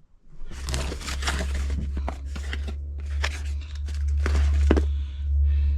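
Crinkling and rustling plastic packaging with irregular clicks and knocks as a fibreglass repair kit is opened and its contents handled, over a steady low rumble.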